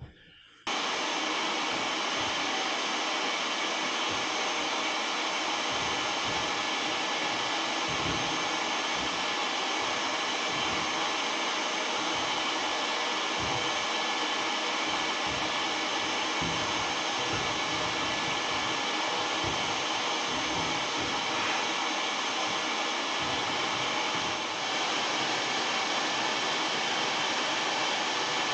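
Vacuum switched on under a second in and running steadily, sucking soot out of an oil furnace during cleaning.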